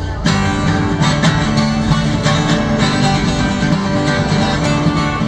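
Blues guitar played in an instrumental break between sung verses, a steady rhythm of plucked notes and chords.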